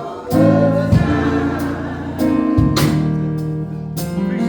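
Live gospel music from a church band between the singer's lines: sustained low bass notes under a steady beat of sharp drum and cymbal hits, with a sung note held briefly near the start.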